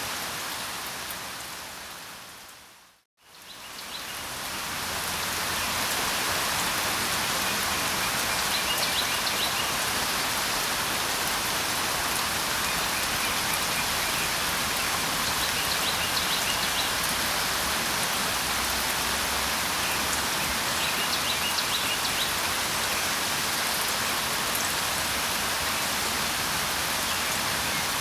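Steady rainfall. It fades out to silence about three seconds in, then fades back up, like the join of a looped recording. Faint short bird chirps come through the rain a few times.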